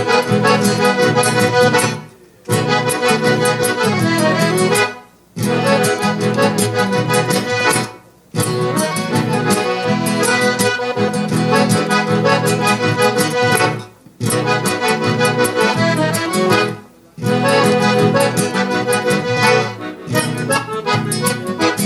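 Accordion playing an instrumental passage of a gaúcho dance tune over a strong bass, in phrases that stop dead for a moment every few seconds. It ends shortly before the close.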